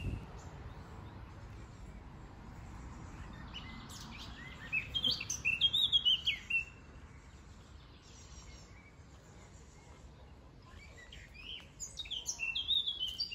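A songbird singing two bouts of quick chirping notes that slide up and down in pitch: one about four seconds in and one near the end, over faint background noise.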